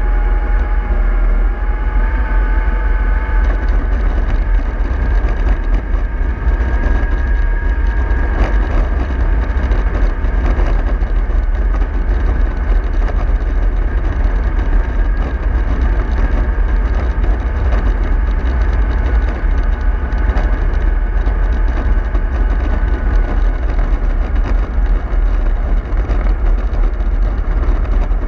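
Bus running along the road: a steady low rumble with road noise and a thin whine holding nearly one pitch, which wavers slightly in the first few seconds.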